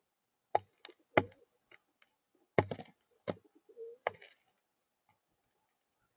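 Blue jays pecking: about eight sharp, irregular knocks and taps, with a short low wavering tone a little after halfway. The knocks stop about two-thirds of the way through.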